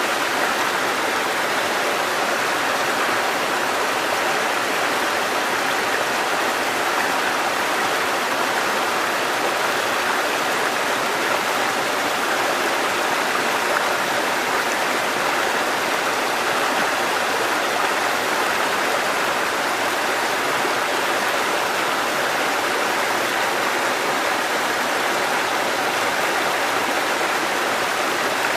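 Mountain stream cascading over rocks, a steady rushing of water with no change.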